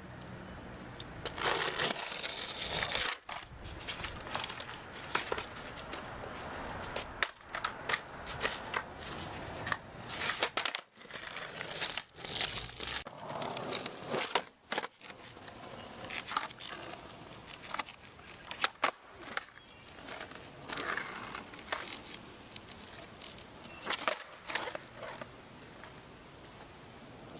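Skateboard wheels rolling on concrete, broken by many sharp clacks and knocks of the board, cut into a run of short clips.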